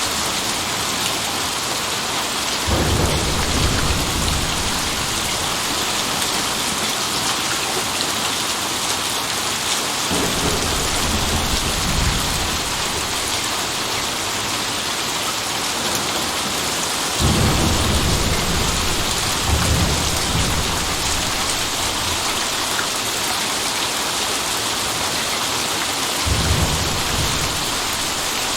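Steady rain hiss in a thunderstorm. Low thunder rumbles roll in four times: a few seconds in, around ten seconds, a longer spell past the middle, and once near the end.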